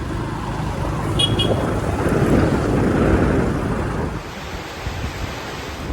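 Road noise from riding on a motorcycle taxi: the engine runs with a continuous rumble that swells about two seconds in and eases off after about four.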